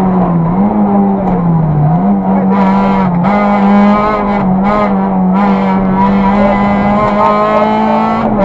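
Peugeot 206 RC rally car's 2.0-litre four-cylinder engine running hard at high revs, heard from inside the cabin. The pitch holds steady, with several brief dips as the driver lifts or shifts.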